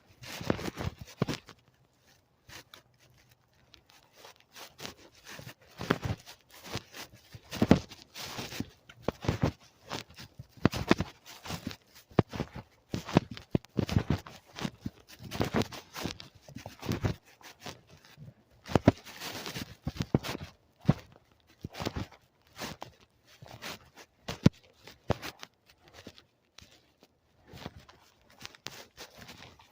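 Footsteps crunching and rustling at an uneven pace, a dense run of short scuffs with a few louder crunches.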